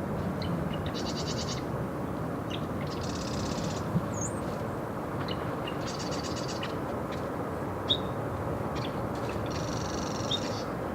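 A small wetland songbird repeating a short, buzzy trill four times, with a few sharp chips and a quick whistled note in between, over steady background noise.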